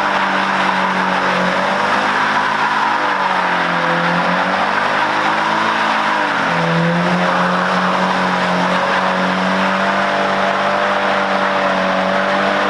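Car engine running at fairly steady revs, its pitch dipping briefly twice, about a third and halfway through, then settling back.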